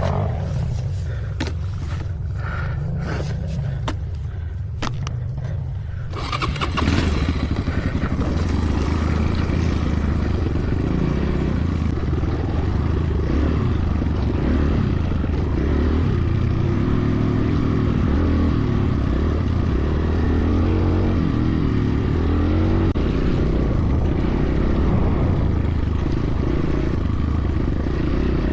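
Enduro motorcycle engine idling, with scattered clicks and knocks, for about six seconds. It then picks up and runs louder under throttle, its pitch rising and falling as the rider goes.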